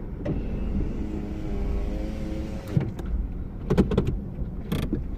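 Car running with a steady low rumble. A whine with a steady pitch lasts about two seconds and ends in a knock, followed by several sharp clicks and knocks.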